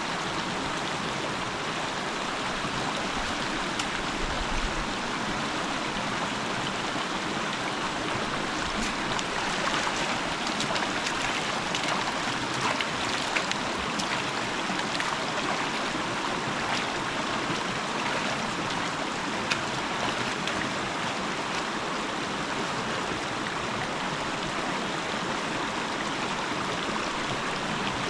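River water rushing steadily over rocks, with a few faint clicks in the middle.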